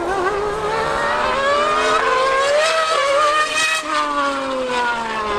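High-revving racing engines of a Formula 1 car and a superbike accelerating hard. The pitch climbs steadily for almost four seconds, then drops sharply and keeps falling as they pass by.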